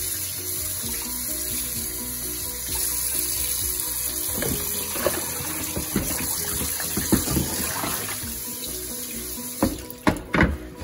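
Tap water running into a stainless steel Saladmaster skillet in a kitchen sink while a hand rubs the pan clean. Near the end the pan is tipped out and knocks sharply against the sink a few times.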